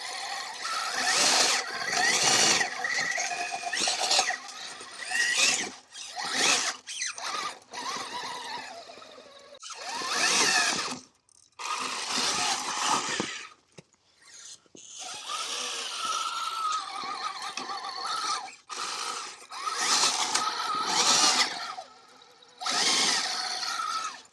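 Axial SCX6 RC crawler's electric motor and geared drivetrain whining in repeated stop-start bursts of a second or two, the pitch rising and falling with the throttle as it crawls over rock.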